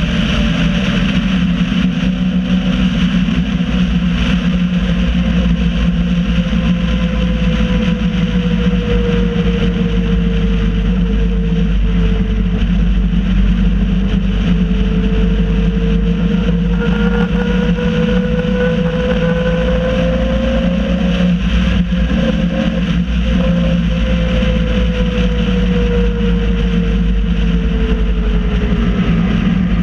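MG Midget race car's engine heard from the cockpit, running steadily at reduced pace under the safety car. Its pitch drifts slowly down over the first half, rises again, then falls near the end.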